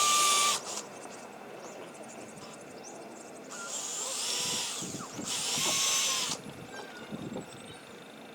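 Power drill driving wood screws into a wooden frame, running in short bursts: one stops about half a second in, then two longer runs come back to back in the middle.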